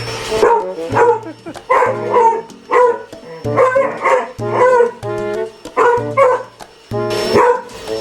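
Beagle barking repeatedly at a robot vacuum, about one bark a second, over background music with a steady bass line.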